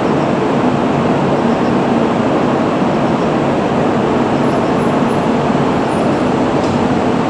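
N700-series Shinkansen train pulling out of the station, its cars rolling past close by with a loud, steady running noise of wheels on rail.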